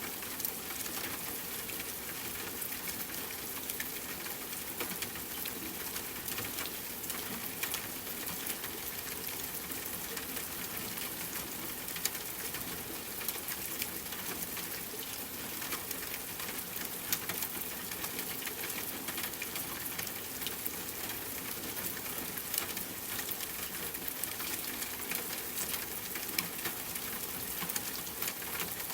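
Steady rain hissing, with many small sharp clicks and pops scattered through it, as from a crackling campfire and drops striking close by.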